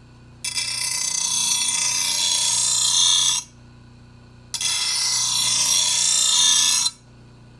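Power grinder's wheel grinding a steel lawnmower blade in two passes of about three seconds each, starting and stopping abruptly with a short break between, as the blade's back edge is cleaned up and deburred.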